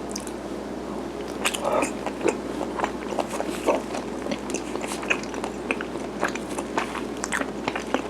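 A person chewing garaetteok, the chewy Korean rice cake: irregular wet mouth clicks and smacks that start about a second and a half in, over a steady background hum.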